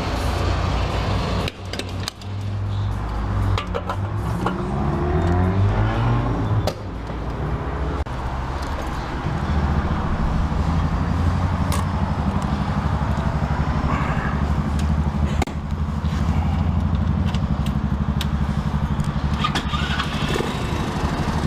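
Small monkey bike engine pulling away, its revs climbing and dropping back briefly at each gear change over the first seven seconds or so, then holding a steady note at cruising speed from about nine seconds in.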